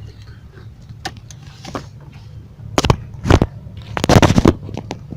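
Parts and packaging being handled: a few light clicks, then sharp knocks and a clattering, scraping stretch in the second half, over a low steady hum.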